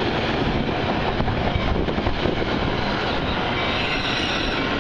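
Metra commuter train moving on the rails: a steady, loud rumble and rattle of wheels and cars, with a faint high wheel squeal coming in near the end.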